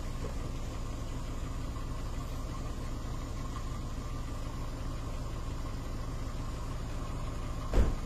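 Car engine idling steadily close by, with one short thump near the end.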